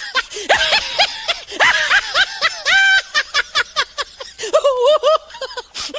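High-pitched, cartoonish laughter sound effect: fast runs of short giggling syllables, several a second.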